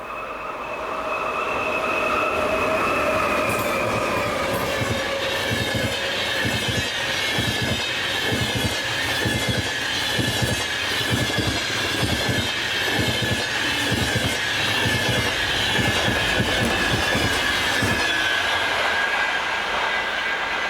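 A train passing close by. A steady, slightly falling tone comes first, then wheels clack rhythmically over rail joints for about fourteen seconds under a steady high wheel squeal. The sound eases off near the end.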